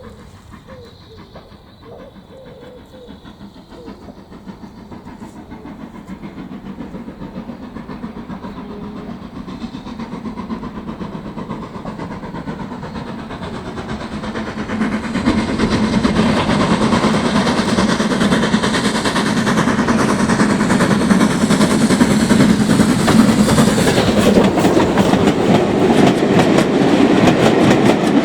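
Steam train approaching, its rapid rhythmic running noise growing steadily louder and swelling sharply about halfway through as it draws close. Birds chirp faintly at the start.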